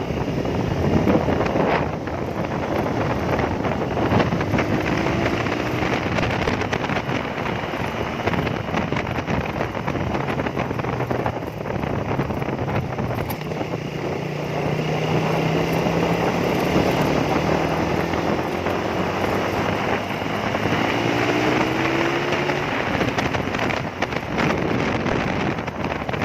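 Suzuki Raider 150's single-cylinder four-stroke engine running under way in third gear at light throttle, with wind rushing over the microphone. The revs rise briefly about four seconds in and again near the end.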